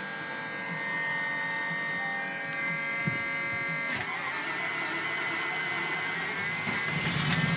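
A 1995 Range Rover Classic being started in about 0 °F cold: a steady electrical whirring whine, a click about three seconds in and a sharper click a second later, then a deeper hum building near the end.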